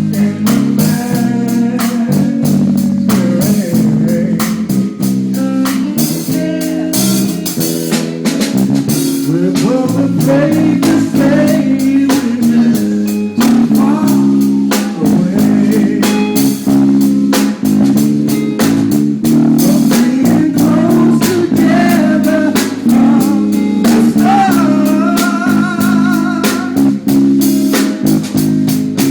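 Blues music: guitar and singing over a drum beat.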